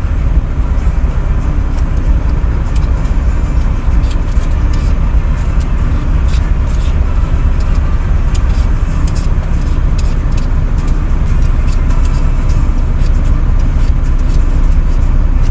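Steady low rumble of an idling semi-truck diesel heard inside the cab, with quick light scraping ticks of a potato being peeled over it.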